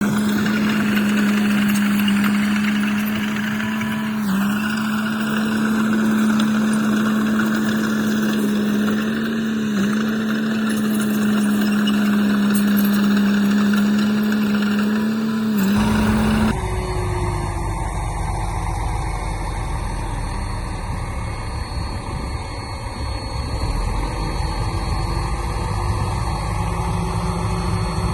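Engine of heavy earthmoving machinery running steadily, with a strong steady hum that dips briefly three times. About halfway through, the sound changes suddenly to a deeper, lower engine rumble.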